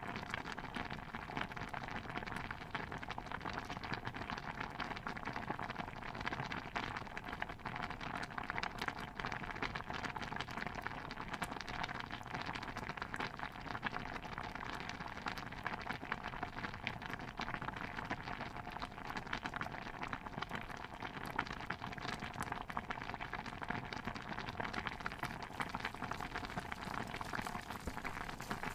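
A pot of stew bubbling on the boil: a steady hiss thick with small popping bubbles.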